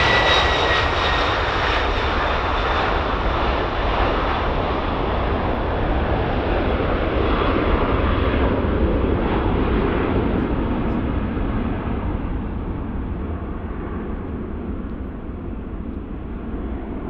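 Jet aircraft engines passing and moving away: a loud rush with a high whine that drops slightly in pitch in the first couple of seconds, then the noise steadily dulls and fades.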